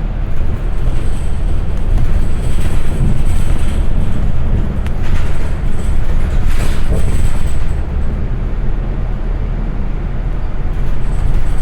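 Transit bus under way, heard from inside: a steady low engine and road rumble with tyre noise and rattling.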